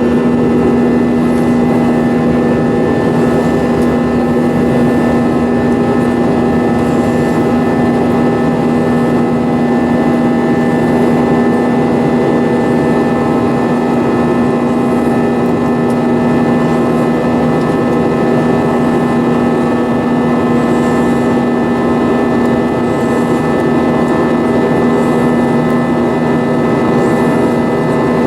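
Airbus A320 jet engines and airflow heard inside the cabin in flight: a loud, steady roar with a low drone and several fixed engine tones above it, holding even throughout.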